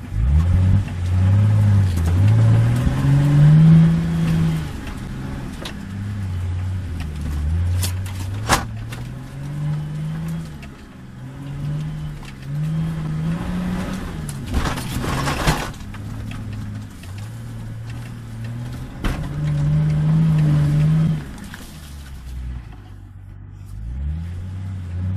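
Off-road Nissan Patrol 4x4's engine heard from inside the cab, revving up and falling back again and again as it crawls over rough ground, with a few sharp knocks along the way.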